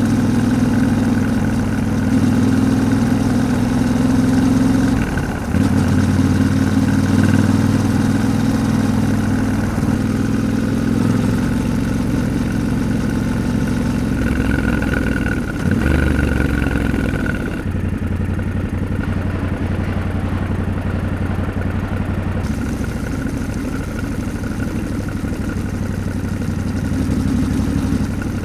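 Yamaha Ténéré 700's parallel-twin engine running while the bike is ridden, with the engine note dipping briefly twice, about five and about sixteen seconds in.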